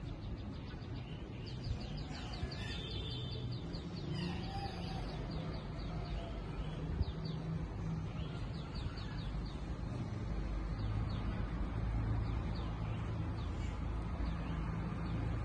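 Small birds chirping in quick high twittering runs over a steady hiss of rain. A low rumble builds up about ten seconds in.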